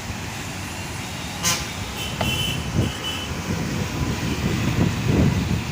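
Low, gusty rumble of road traffic, with a short high horn toot about two seconds in.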